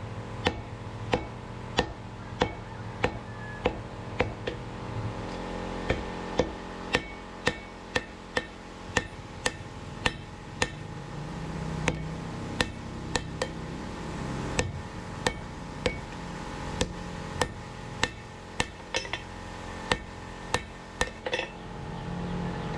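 Hand hammer striking hot steel on an anvil, steady blows about one every 0.6 s, over a steady hum.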